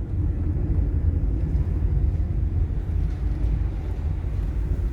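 Car interior road noise while driving: a steady low rumble of engine and tyres heard from inside the cabin.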